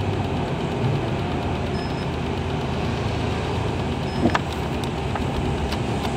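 Car engine and road noise heard from inside the cabin while driving, a steady rumble with a brief knock about four seconds in.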